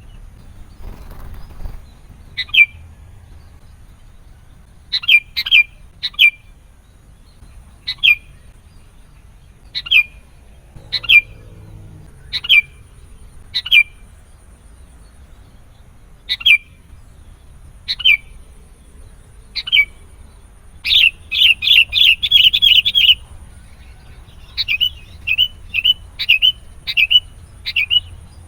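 Sooty-headed bulbul calling: sharp single chirps every second or two, then a rapid run of about ten notes a little past the middle, followed by quicker, closely spaced chirps near the end.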